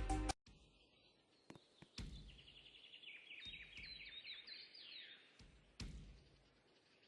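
Music stops abruptly just after the start. Then, against faint outdoor background noise, a bird sings a quick run of high chirps for about three seconds, with a few sharp knocks around it.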